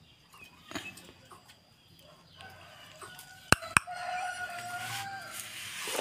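Two sharp clicks a moment apart, then a single long, drawn-out bird call lasting about two seconds.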